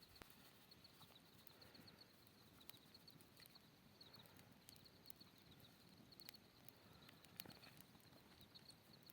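Faint, near-quiet forest ambience: a rapid high chirping repeats throughout, with scattered small clicks and taps.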